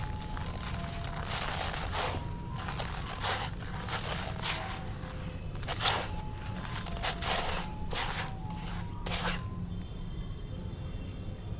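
Dry, dusty concrete pieces crumbling and crunching in a run of irregular crushes, which stop about nine seconds in. Faint soft music and a steady low hum lie underneath.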